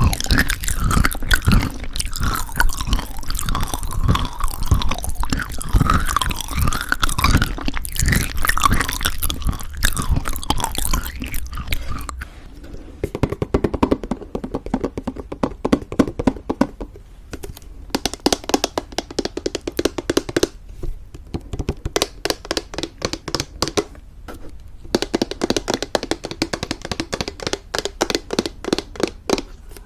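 Close-miked chewing of crunchy homemade granola in thick yogurt: heavy, wet crunching for the first dozen seconds, then quieter, rapid, closely packed crunches.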